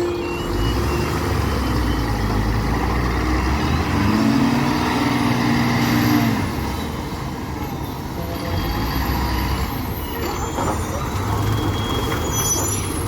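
Heavily loaded diesel trucks running on a steep ghat road, a low engine drone that swells in the middle with a held pitched note for about two seconds, then eases off.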